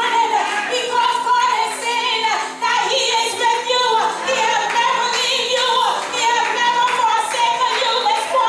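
Singing voice with music behind it, over a steady held tone.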